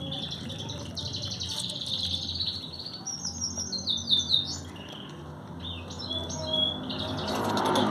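Small birds chirping: rapid trills, then a run of quick falling chirps about three to four seconds in, with scattered chirps near the end, over a steady low hum.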